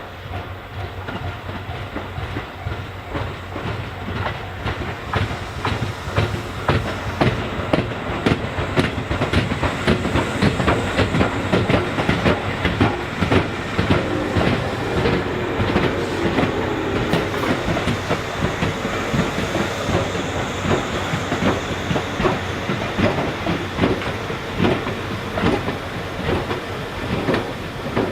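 Train rolling through the station, its wheels clacking rapidly over rail joints and points, growing louder about five seconds in.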